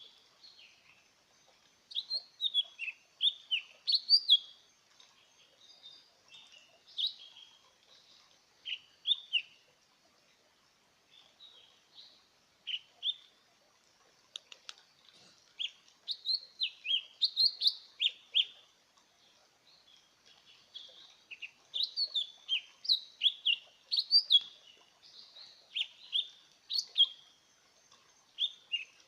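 Lesser green leafbird singing: phrases of quick, varied, high whistled notes in bursts of a few seconds, separated by short pauses.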